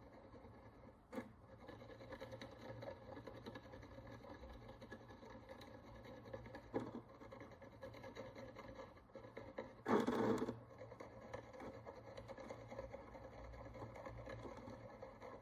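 Faint, fine scraping of a hand tool working the crust off an ancient Roman bronze follis, with small ticks as it catches. There is a sharper tick about a second in and another near seven seconds, and a brief louder noise about ten seconds in.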